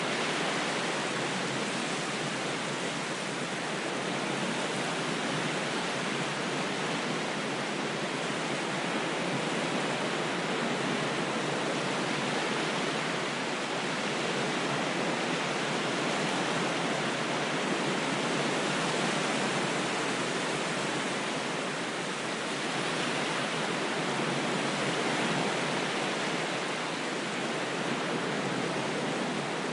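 Waves washing in a steady, continuous rush, swelling and easing only slightly every few seconds.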